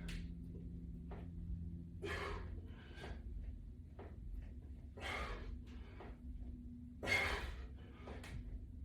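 A man breathing hard under exertion during a resistance-band exercise, with short forceful exhalations every second or two; the strongest comes about seven seconds in. A steady low hum runs underneath.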